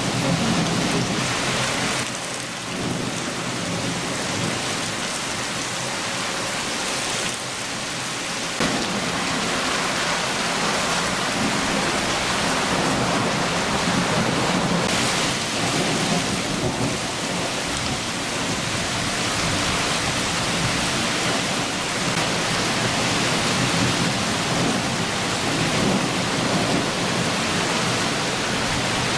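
Steady downpour of a summer rain shower, a dense even hiss, with low thunder rumbling underneath that swells and fades.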